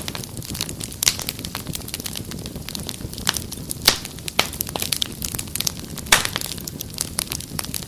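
Wood fire crackling: irregular sharp pops and snaps over a steady low hiss, with a few louder pops along the way.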